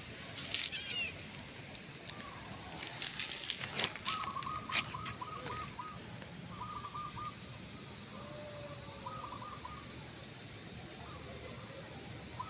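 Birds calling outdoors: short trilled calls repeated several times, and a high chirp about half a second in. A loud flurry of sharp, crackling clicks or rustles comes from about three to five seconds in.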